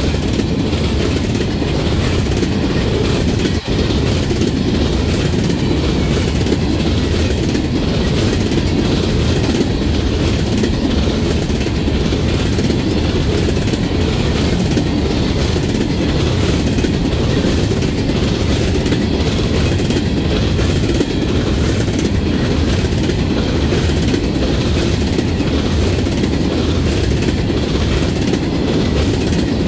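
Freight train of Herzog open-top hopper cars rolling past close by: a loud, steady rumble of steel wheels on rail with a regular clickety-clack as the cars' trucks cross the rail joints.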